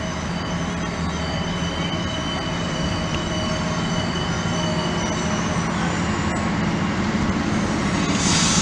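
Train at the platform, its steady engine hum and whine slowly growing louder. Near the end a high squeal of wheels or brakes starts.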